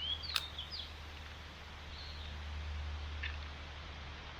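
Short rising bird chirps, a few times, over a steady low rumble, with a single sharp click about half a second in.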